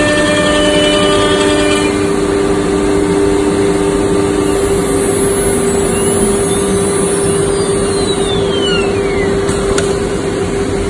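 CNC router spindle running with a steady high whine over continuous machine noise. Some of the tones drop out about 2 and 4.5 seconds in, high gliding whines rise and fall in the middle, and a sharp click comes near the end.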